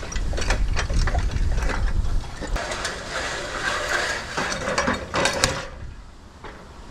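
Quick mechanical clicking and rattling, like gear being handled. For about the first two seconds, wind buffets the microphone.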